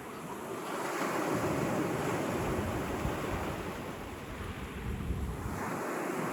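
Sea waves washing onto the shore, the surf swelling about a second in, easing off, then building again near the end, with some wind on the microphone.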